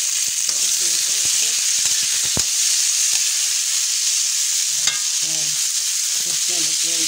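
Tomato, onion and ginger sizzling in hot oil in a wok while a spatula stirs them, with a couple of sharp taps of the spatula on the pan.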